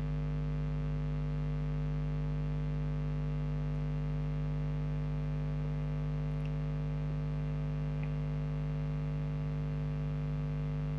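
Steady electrical mains hum, a buzz with many harmonics that holds unchanged throughout.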